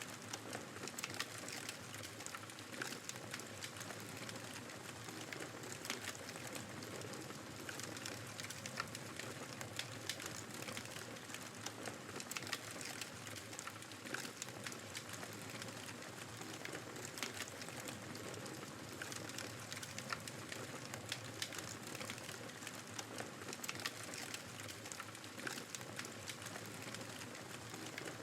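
Wood fire crackling in a fireplace, with frequent irregular small pops, over the steady rush of blizzard wind.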